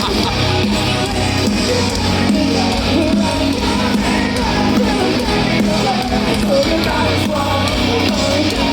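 Live metalcore band playing loud through festival PA speakers: distorted guitars, bass and drums over a steady electronic dance beat.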